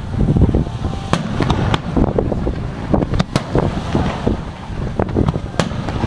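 Aerial fireworks shells bursting in quick, irregular succession: sharp bangs, several close together, over a continuous low rumble.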